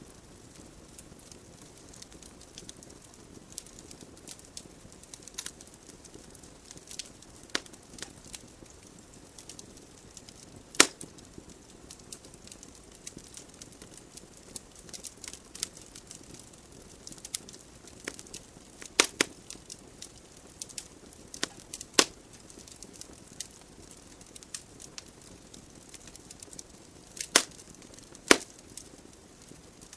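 Wood fire burning in a fireplace: a soft steady hiss of flames with scattered crackles and sharp pops from the burning logs, the loudest pops about 11, 19, 22 and 27 to 28 seconds in.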